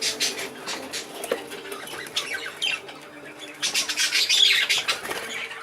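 A room full of exhibition budgerigars chattering and squawking in many quick overlapping chirps, with a louder burst of calls about four seconds in.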